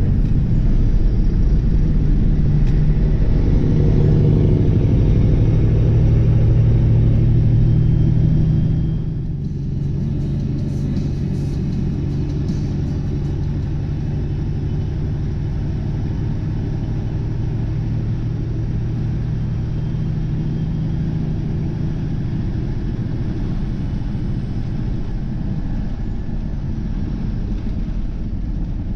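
Semi-truck diesel engine heard inside the cab while driving, a steady low drone. It is louder for about the first nine seconds, then drops to a quieter steady level.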